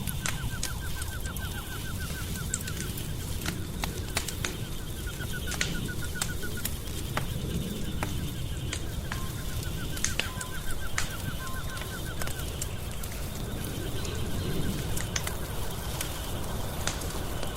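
Wood fire crackling, with frequent sharp pops over a low rumble. Behind it runs a steady high insect-like chirring, and three times a rapid train of ticking calls lasts a couple of seconds.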